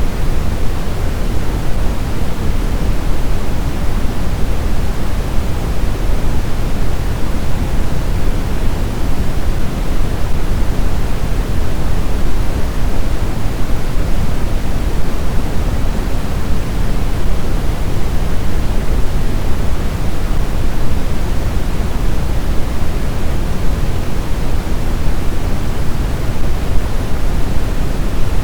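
Steady blizzard wind: an even, deep rushing noise with no distinct gusts or howls.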